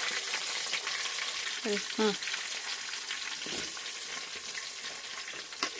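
Food sizzling steadily in hot oil in a cooking pot as it is stirred.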